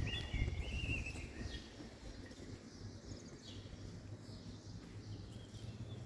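Outdoor ambience with a small bird chirping several short notes, busiest in the first second and a half and sparser after, over a low background rumble.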